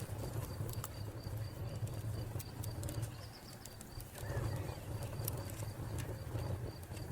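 Wood fire crackling with scattered sharp pops over a low rumble. A cricket chirps in a steady, even pulse throughout, and a bird calls about four seconds in.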